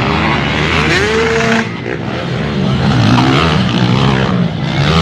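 Several small dirt bike engines revving, their pitch rising and falling as the riders work the throttle, with one climbing steadily about a second in and another dropping away near the end.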